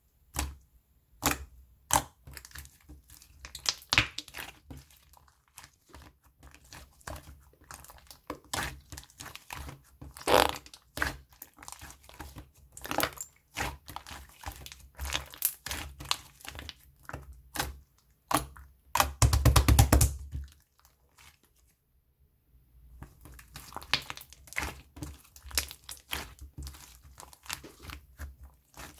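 Slime being squeezed and stretched by hand, giving irregular sharp clicks and pops of trapped air. A dense run of crackling comes about nineteen seconds in, followed by a short quiet gap.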